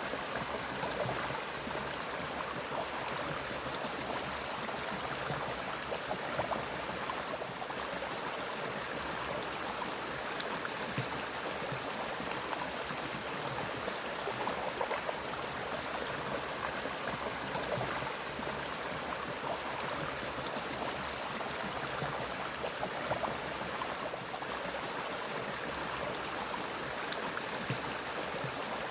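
A forest stream flowing steadily over rocks, an even rushing with small splashes and gurgles. A steady high-pitched whine sits above it.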